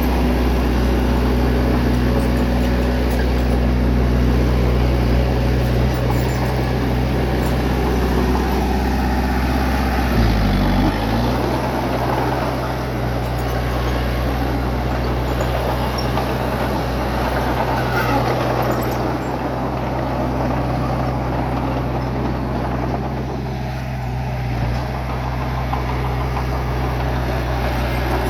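Bulldozer's diesel engine running at steady revs. About ten seconds in, its pitch dips briefly and then picks up again.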